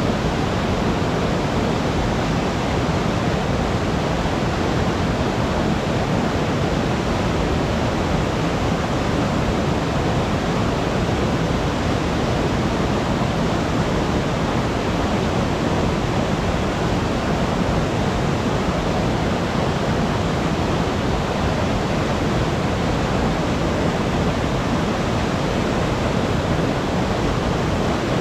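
Waterfall in a mountain stream pouring steadily, a constant full rushing of water, its flow high just after a typhoon.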